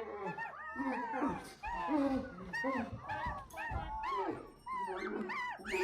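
A flock of birds calling, many short rising-and-falling shrieks overlapping one another at different pitches.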